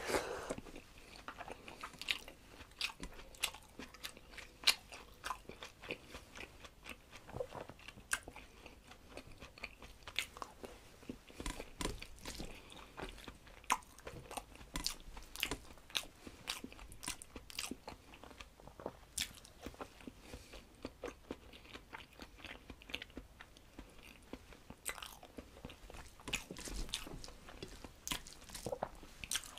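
Close-up mouth sounds of a man chewing a handful of rice and curry eaten by hand: many short, wet clicks and smacks at an uneven pace.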